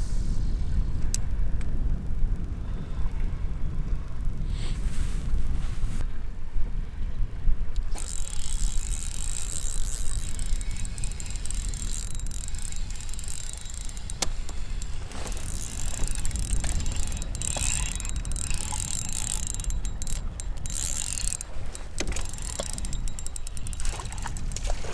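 Wind buffeting the microphone with a constant low rumble. A spinning reel is cranked in bursts from about a third of the way in, giving patches of fine ticking and hiss, with a few sharp clicks.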